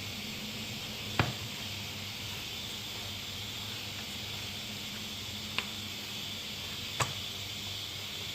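Pressure cooker hissing steadily, with three sharp knocks, the loudest about a second in.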